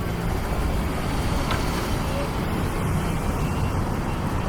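Steady road traffic noise from a city street, a low, even rumble of passing cars with no single event standing out.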